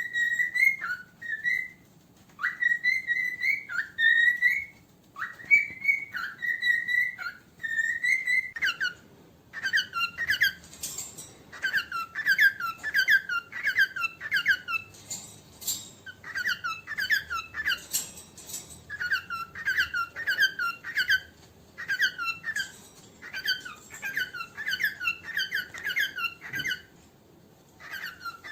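Cockatiel whistling short phrases of held notes with upward slides, then from about nine seconds in a run of rapid high chirps, several a second in clusters with brief pauses.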